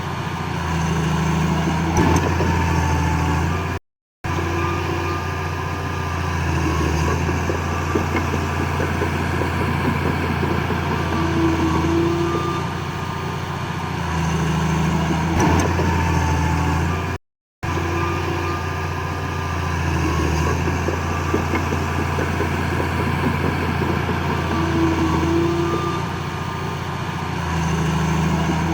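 Heavy diesel earthmoving machinery running steadily, its engine note swelling and easing with the load. The sound cuts out briefly twice.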